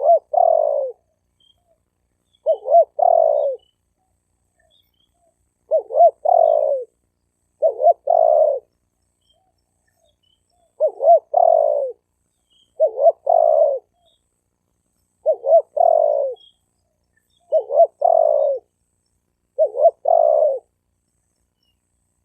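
Male spotted dove cooing: the same phrase, about a second long, repeated roughly every two seconds, with two short notes leading into a longer falling coo and silence between phrases.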